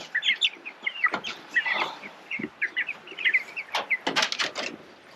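A flock of young Cornish Cross broiler chicks peeping, with many short high chirps overlapping. A few sharp clicks come about four seconds in.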